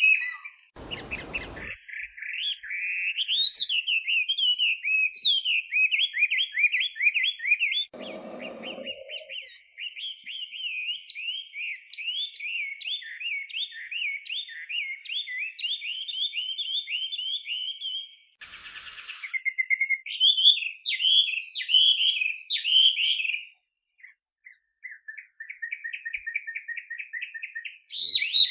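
Chinese hwamei singing a long, fast run of varied whistled phrases. A short thump comes about a second in and a brief rustle-like noise about eight seconds in. The song breaks off briefly near the end and resumes as a quick string of repeated notes.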